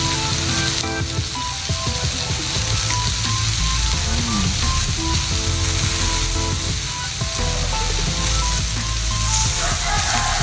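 Beef sizzling steadily as it cooks over high heat, with light background music playing a simple melody.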